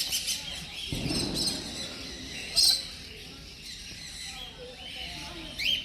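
Mixed chorus of aviary birds, parrots among them, chirping and calling, with a loud shrill call about two and a half seconds in and another near the end.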